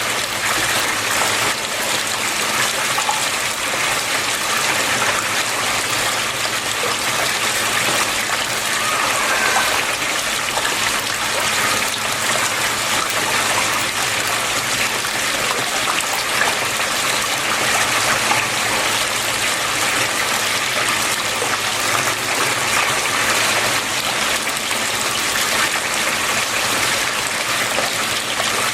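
Flowing water splashing and rushing, a steady even wash of sound with no breaks.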